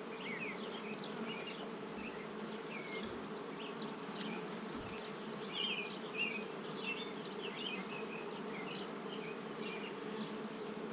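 Honey bees humming steadily from an opened hive, with short high chirps repeating throughout.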